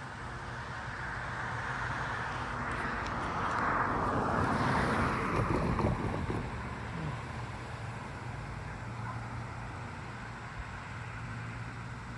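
A road vehicle passing by: engine and tyre noise swelling, loudest about five seconds in with a falling pitch, then fading, over a steady low hum.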